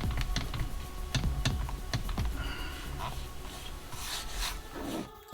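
Irregular light clicks, taps and rubbing of hands handling plastic parts and connectors, over quiet background music.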